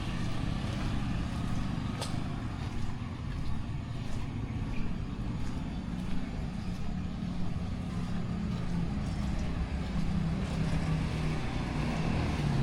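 Low, steady rumble of a motor vehicle's engine running close by, over an even hiss of heavy rain, with one sharp click about two seconds in.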